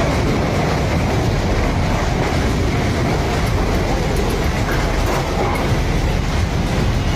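Massive landslide: a steady, heavy rumbling roar of moving rock and debris.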